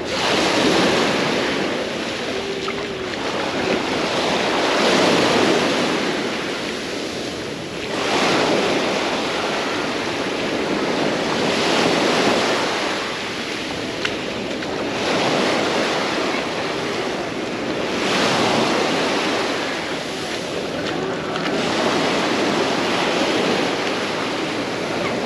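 Small sea waves breaking and washing up the beach, each surge swelling and falling away about every three to four seconds.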